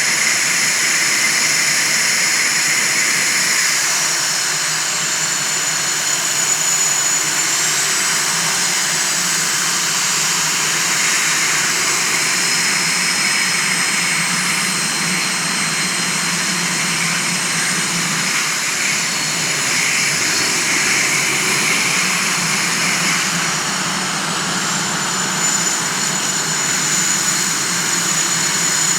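Northrop F-5E Tiger II's twin General Electric J85 turbojets running steadily, a dense rushing noise with a high whine on top that shifts slightly in pitch a few times.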